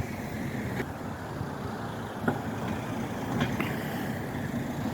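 Steady road traffic noise from vehicles on a village street, with a few short sharp clicks about one, two and three and a half seconds in.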